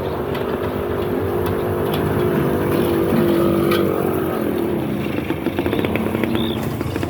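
Small engine running steadily. Its pitch rises about two seconds in and falls again a couple of seconds later, as when it is revved.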